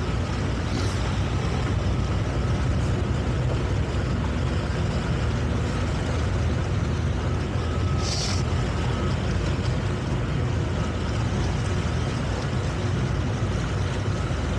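Towboat engine running steadily under way while towing, a constant low drone. A short hiss about eight seconds in.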